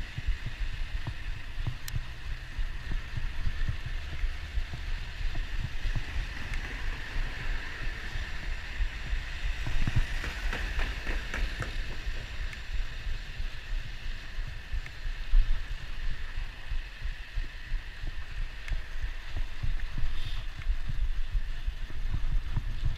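Wind buffeting the microphone during a bicycle ride: an uneven low rumble over a steady hiss of road and tyre noise, with a few faint ticks.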